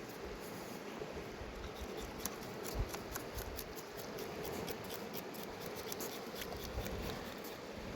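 River water flowing steadily, with a run of quick, light clicks from about two seconds in until near the end.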